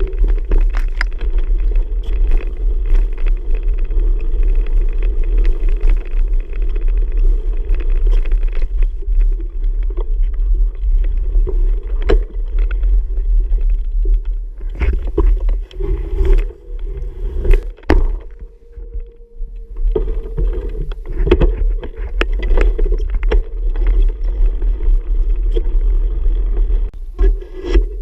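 Low wind and riding rumble from a moving bicycle, with scattered knocks and rattles as it goes over bumps. The rumble eases briefly about two-thirds of the way through, then picks up again.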